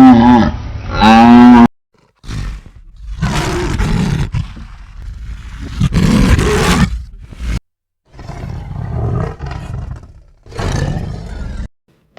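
A cow's moo ends within the first two seconds. It is followed by a string of long, rough, roar-like animal calls with short gaps between them.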